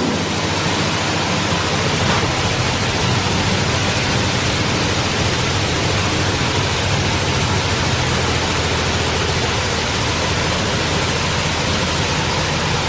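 Oasis Baywash i5 automatic in-bay car wash running over the car: a loud, steady rushing hiss with a low machine hum beneath.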